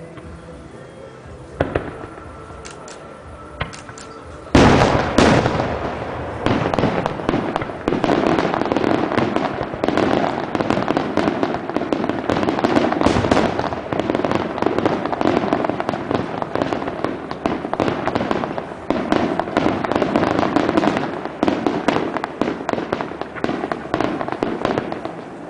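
Fireworks display: a couple of single bangs, then a loud blast about four and a half seconds in opens a dense barrage of explosions and crackling that goes on without a break.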